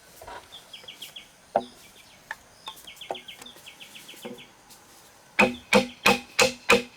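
Hand-tool blows on bamboo: a few light, scattered knocks, then from about five seconds in a steady run of hard strikes, about three a second.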